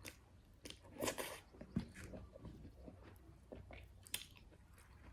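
A person chewing and crunching food with the mouth, in irregular wet clicks and crunches, the loudest about a second in.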